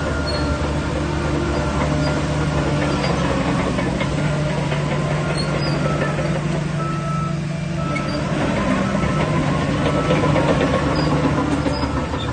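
Shantui DH17C3 Pro bulldozer's diesel engine running steadily under work, easing off briefly about seven seconds in and then picking up again, with scattered knocks.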